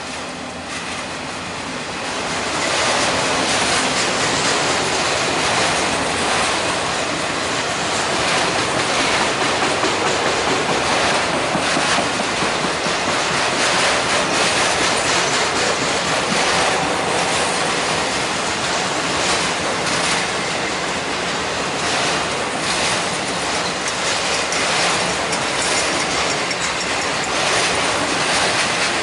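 Mixed freight train of auto racks and double-stack container cars rolling past, a steady rumble with wheels clicking over the rail joints. It grows louder over the first couple of seconds, then holds steady.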